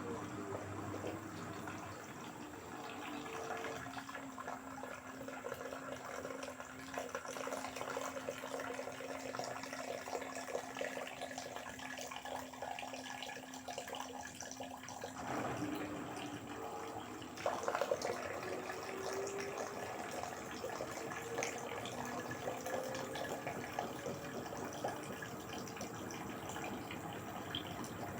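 LG direct-drive washing machine mid-cycle: water running and sloshing in the drum over the steady hum of the motor. The hum changes pitch about halfway through, a knock follows a couple of seconds later, and then a tone rises slowly.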